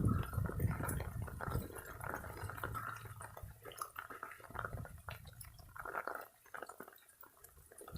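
Small mudslide: waterlogged soil sliding and trickling down a bank, a wet, liquid sound with many small crackles and clicks of loose debris, dying down near the end.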